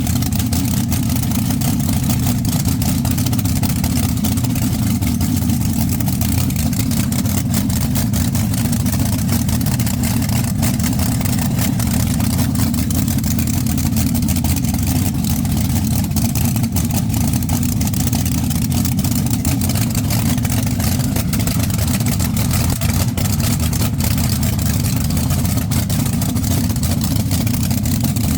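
Twin 392 Hemi V8s of a twin-engine dragster running together at a steady, loud idle on pump gas after a cold start.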